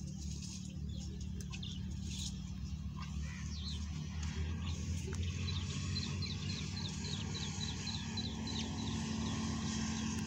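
Small birds chirping, with a run of short repeated high calls at about three a second in the second half, over a steady low hum.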